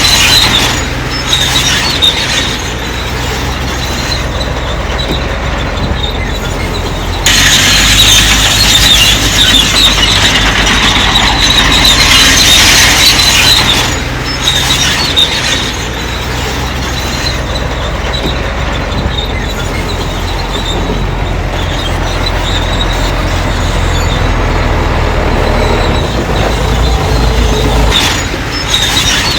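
Bulldozer's diesel engine running, with the high metallic squeal of its steel crawler tracks; the sound shifts abruptly a few times, louder and brighter for several seconds after about the seventh second.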